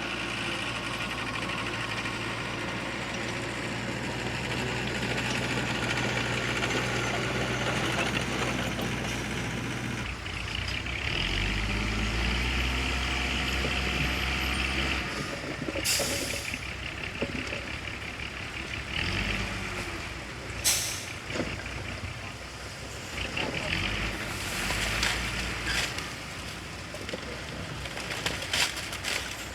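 Heavy diesel engines of a dump truck and bulldozer running. A steady engine note for about ten seconds gives way to an engine revving and changing pitch. Two short sharp hisses, like an air brake, come about sixteen and twenty-one seconds in.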